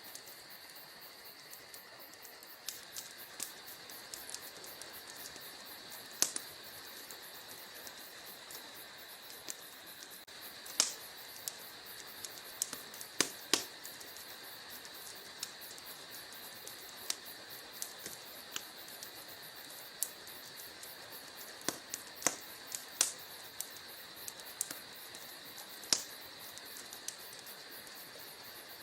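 Wood fire crackling in a fireplace: irregular sharp pops and snaps, a few of them loud, over a steady high chirring of crickets.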